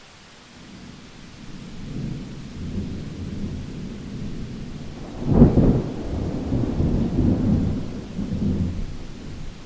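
Thunder rolling over steady rain. A low rumble builds over the first couple of seconds, a louder, sharper clap comes about five seconds in, and rolling rumble follows and eases off near the end.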